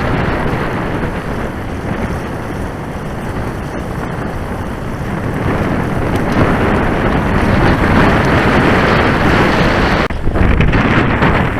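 Wind buffeting the microphone: a steady rush of noise, with a heavier gust about ten seconds in.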